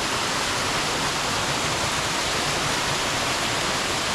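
Stream water rushing steadily, a loud even rush of fast-flowing water.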